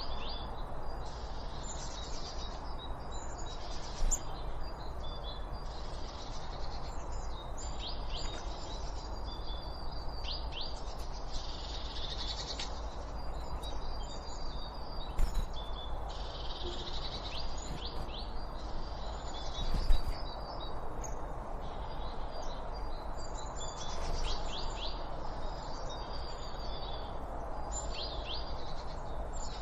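Several small birds chirping and twittering almost without pause, their calls overlapping over a steady background hiss. A few brief knocks break in, the loudest about two-thirds of the way through.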